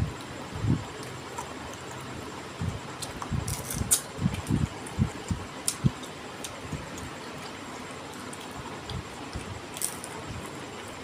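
Close-up eating sounds of a man chewing chicken curry and rice eaten by hand: irregular soft chewing thumps with a few sharp smacks, over a steady background hiss.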